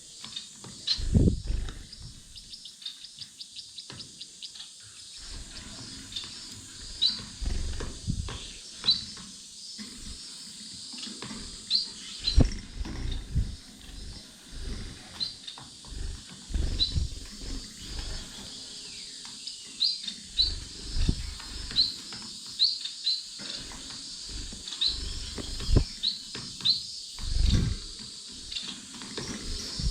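Small caged finches calling in short, high chirps scattered throughout, over frequent brief low thumps and rustles close by.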